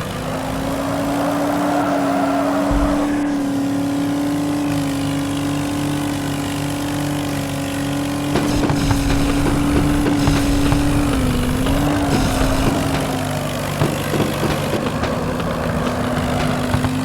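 Vehicle engine running steadily with a held note, its pitch dipping briefly about two-thirds of the way through. Scattered crackling and clicks join in the second half.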